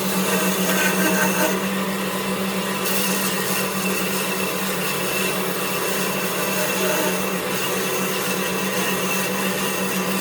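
Electric power tool running steadily, its motor giving a constant low hum under an even whirring noise.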